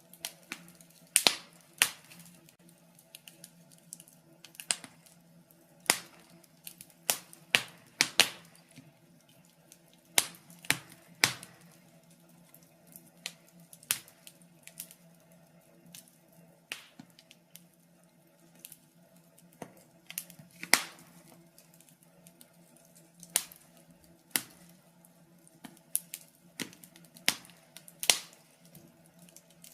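Wood fire crackling: irregular sharp snaps and pops, sometimes several in quick succession, over a faint steady low hum.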